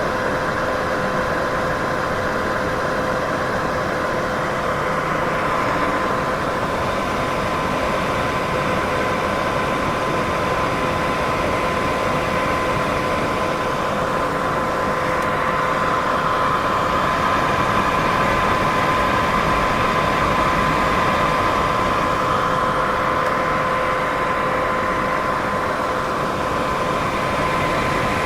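Steady white-noise sleep sound: an even, unbroken rush with a constant hum running through it and slow, gentle swells, much like a fan or air conditioner.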